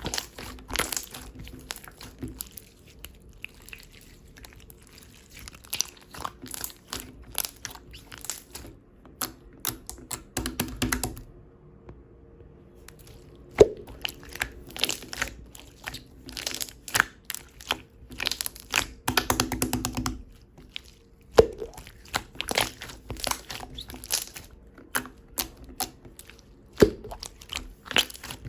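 Clear mint crystal slime being squished and pressed by hand, giving a steady run of sticky clicks, crackles and small air-bubble pops, with a few sharper single pops.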